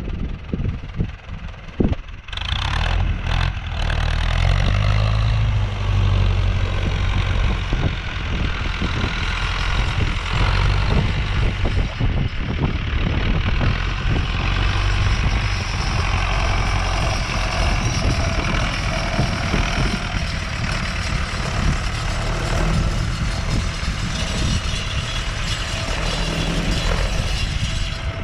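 Renault 651 tractor's diesel engine running steadily under load with a noisy rattle over it, starting about two seconds in after a few sparse knocks.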